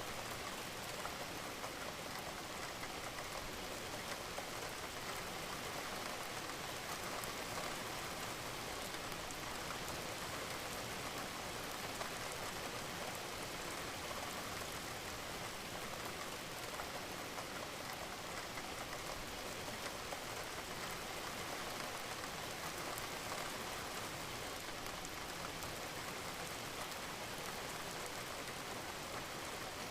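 Steady rain falling, an even hiss of many drops with no change over the stretch.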